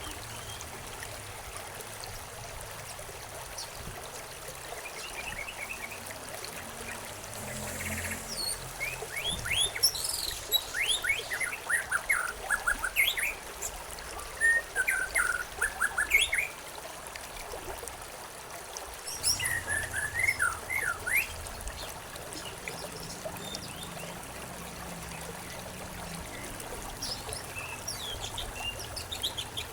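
Small birds chirping and tweeting in quick runs of short notes over a steady trickle of running water. The chirping comes in a busy cluster through the middle, with a few fainter calls near the end.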